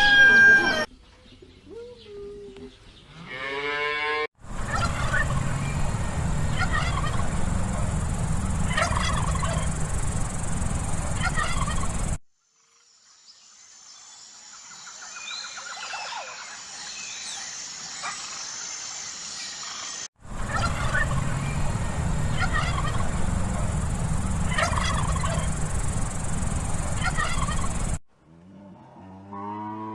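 Farm fowl calling in a string of short clips spliced together, with repeated short calls over a steady background din.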